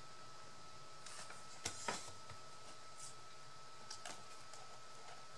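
A few small clicks and soft rustles of hands handling craft materials, over a steady faint high-pitched hum.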